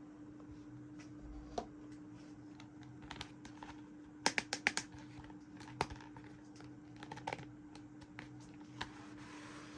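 Small plastic toy pieces clicking and tapping as they are handled and set down: scattered single clicks and a quick run of about five clicks a little past four seconds in, over a faint steady hum.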